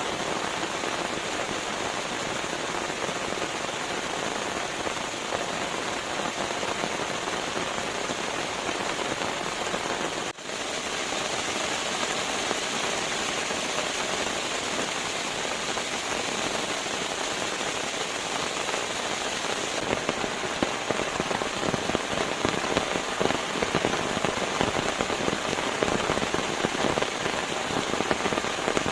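Steady rain falling, a dense patter of drops. It drops out for a split second about ten seconds in, and the patter turns crisper and denser from about twenty seconds in.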